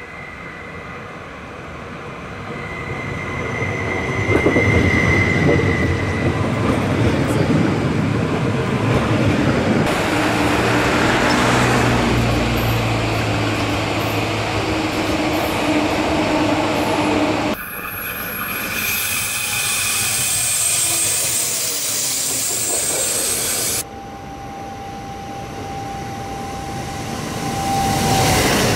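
Electric passenger trains passing close by: wheels rumbling over the rails, with a high steady squeal or whine at times. The sound jumps abruptly three times as the shots change.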